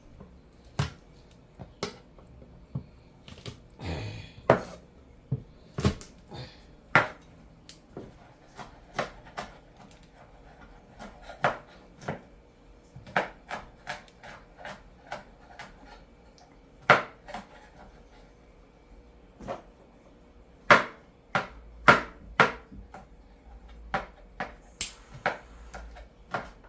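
Kitchen work: irregular sharp knocks and clacks of utensils and containers on a counter or cutting board, roughly one a second and at times in quick runs, over a faint steady hum.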